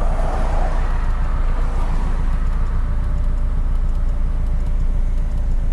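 Flat-four boxer engine of a sports car with a louder aftermarket exhaust, running steadily, heard from inside the cabin.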